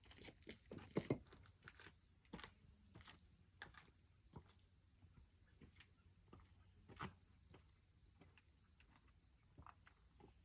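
Faint, steady insect chirping in a high pulsing trill, with scattered clicks and taps that are loudest about a second in.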